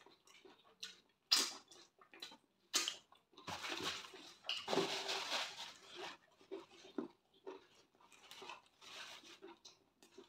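Close-miked wet chewing and mouth sounds of a mouthful of rice, beans and stew, with a few sharp smacks or clicks early on and longer wet, squelchy stretches. A metal spoon scrapes and scoops rice in a glass dish.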